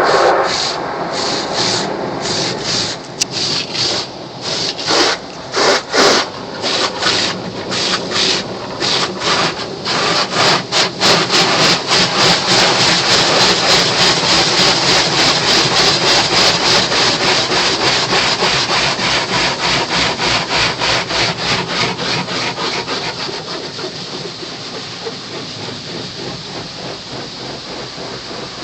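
Rotating cloth brushes of an automatic tunnel car wash scrubbing the car, heard from inside the cabin. They make a rapid rhythmic swishing that speeds up a few seconds in and fades somewhat near the end.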